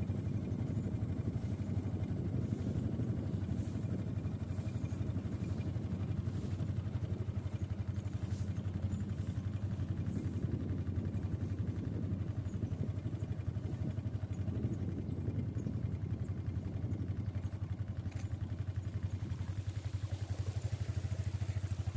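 A small engine running steadily at an even speed, with a low, rapid pulsing note and a few faint light clicks over it.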